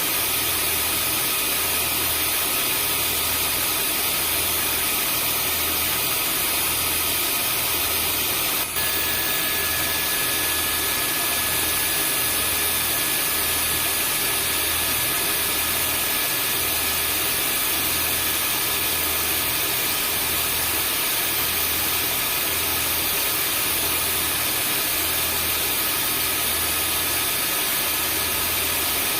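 Vacuum cleaner running steadily: a continuous hiss with high, steady whine tones over a low hum that pulses about once a second. A brief click about eight and a half seconds in, after which a new whine tone joins.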